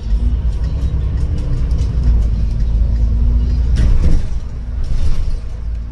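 A road vehicle running: a steady low rumble with a faint engine tone. A short noisy burst comes about four seconds in and a smaller one about a second later.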